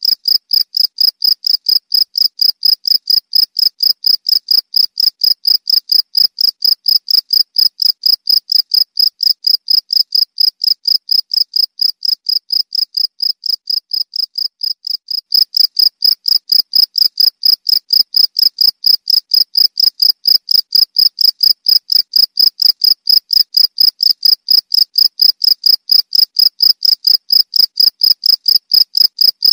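Cricket chirping steadily, a rapid, even series of short high-pitched pulses, about three or four a second, with a brief dip in loudness about halfway through.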